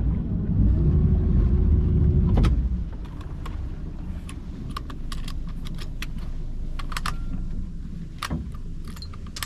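Boat engine revs up loudly for about two seconds, then drops back to a low idle hum. Scattered sharp metallic clicks and rattles follow over the hum.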